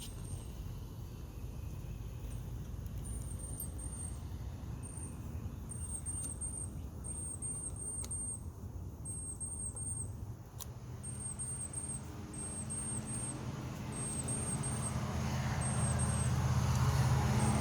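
A bird chirping in short, very high notes, two or three at a time, repeated all the way through. A road vehicle's engine grows louder in the second half and is loudest near the end as it passes.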